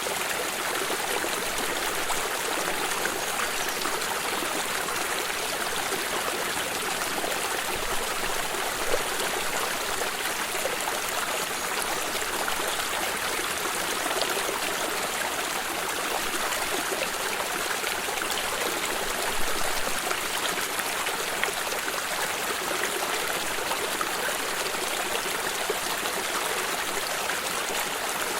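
Stream water running and trickling steadily over rocks, with a couple of slightly louder splashes about nine and nineteen seconds in.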